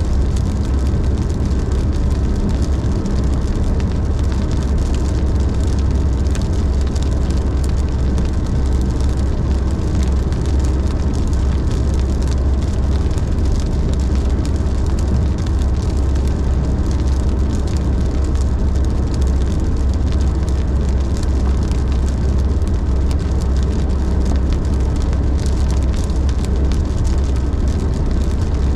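Steady road noise of a car driving at highway speed in heavy rain: a constant low rumble of tyres on wet pavement under a continuous hiss of spray and rain on the car.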